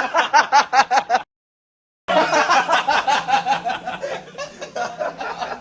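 Laughter: one person laughing in quick ha-ha pulses, then, after a short break in the sound, several people laughing together.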